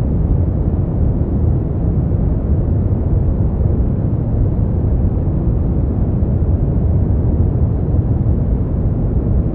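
Brown noise: a steady, deep rumbling hiss, strongest in the bass and falling away toward the treble, with no changes or events.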